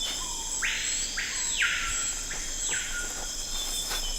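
Rainforest ambience: a constant high-pitched insect chorus, with three short, harsh, buzzing calls in the first half.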